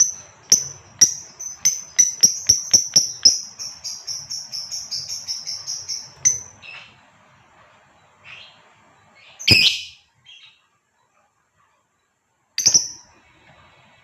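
Female lovebird calling: sharp, high chirps that speed up into a fast chattering trill, which breaks off about six seconds in. A few single calls follow, the loudest a harsh squawk near ten seconds in.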